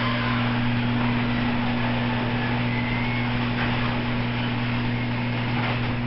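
Genie screw-drive garage door opener running, lowering the door, with a steady low motor hum.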